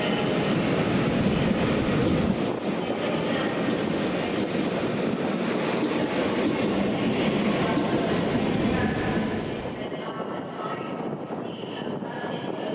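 Train running on the rails with a steady, dense noise that drops to a lower level about ten seconds in.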